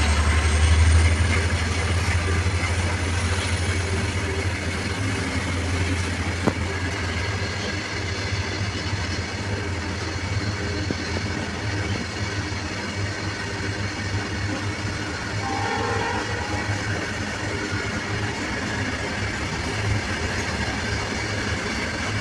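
Diesel locomotive engine running with a steady low rumble, loudest in the first couple of seconds. A faint high whine fades out by about six seconds in, and there is a single sharp click a little after.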